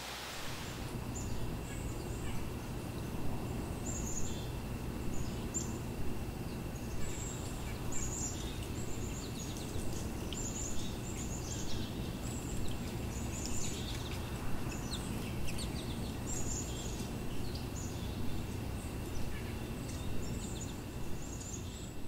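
Songbirds calling: many short, high chirps, several to the second, over a faint steady high tone and a low background rumble.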